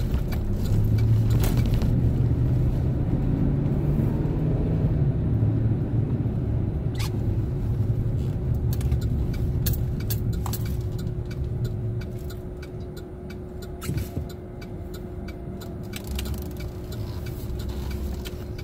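Chevrolet Silverado pickup driving, heard from inside the cab: steady engine and tyre rumble that eases off about twelve seconds in, with scattered light clicks and a single knock near the end.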